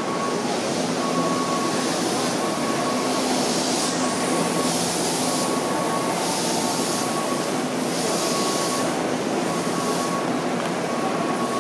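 Station platform beside a stopped Hakone Tozan Railway electric train: a steady hum from the train under crowd noise and footsteps, with a short electronic beep repeating about once a second.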